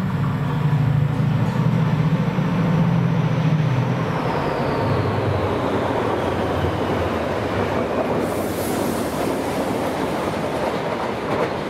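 Class 68 diesel locomotives hauling a flask train pass close by: a deep, heavy engine throb for the first few seconds with a thin whine falling in pitch, then the loud rumble and rattle of wheels on rail as the wagons roll past.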